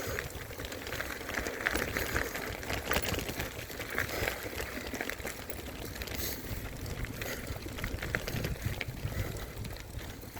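Mountain bike being ridden on a dirt trail, heard from a handlebar-mounted phone: wind rumbling on the microphone with a steady run of small clicks and rattles from the tyres and bike.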